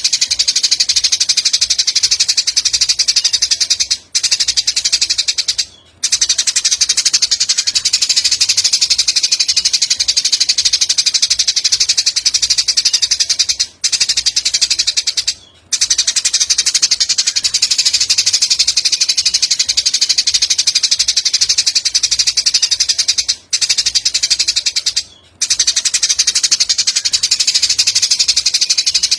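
Songbird-tutoring (masteran) playback: a continuous, very fast, high-pitched chirping trill, looped, with two brief breaks about every ten seconds.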